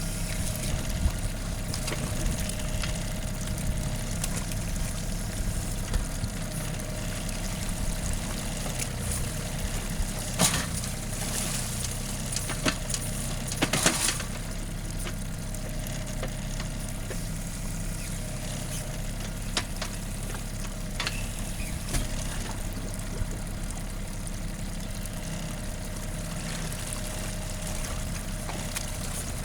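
John Deere 4200 compact tractor's three-cylinder diesel engine running steadily while working a backhoe, with a few sharp knocks near the middle.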